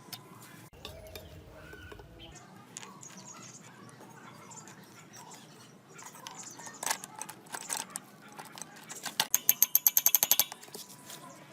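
Metal parts knocking and clicking, then a rapid metallic ratcheting of about ten clicks a second for just over a second, near the end.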